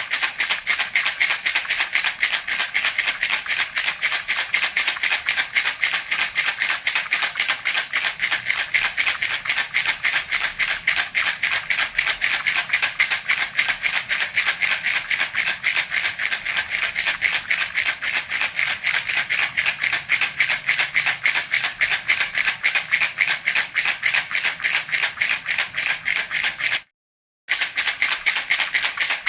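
Baby's rattle (jhunjhuna) shaken steadily in a fast, even rhythm, the beads rattling with each stroke. It drops out to silence for about half a second near the end, then carries on.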